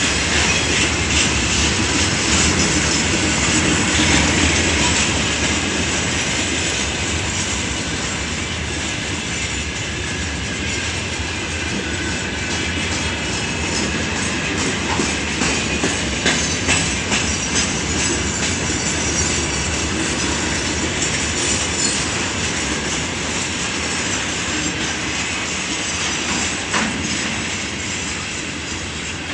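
Freight wagons of a long mixed freight train rolling past, a steady rumble of wheels on rail. Scattered sharp clicks of wheels over rail joints come most thickly a little past the middle.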